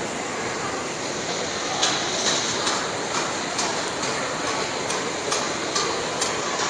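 Roller coaster train running on its track with a steady rumble; from about two seconds in, regular clicks come about twice a second, like the anti-rollback ratchet on a lift hill.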